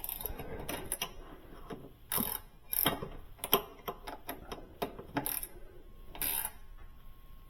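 Hand tools working on refrigerator door-hinge hardware: a run of irregular metal clicks and ratcheting, with a few louder clanks.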